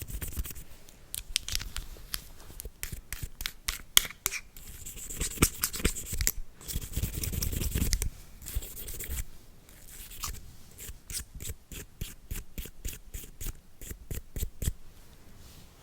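Close-miked ASMR cleaning sounds on a handheld device: brush and scraping strokes broken by many sharp taps and clicks, with a quicker run of taps in the second half.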